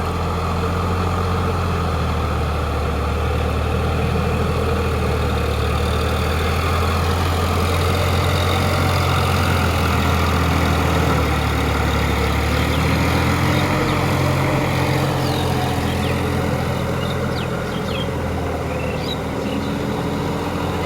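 Farm tractor engine running steadily while ploughing; its note dips and comes back up briefly about two-thirds of the way through.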